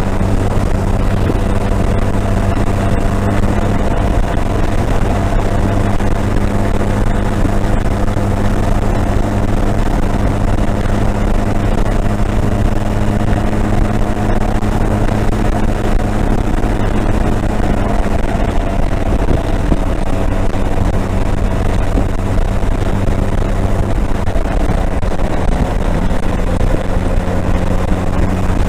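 Motorcycle engine running at a steady cruising speed, a constant hum over road and wind noise.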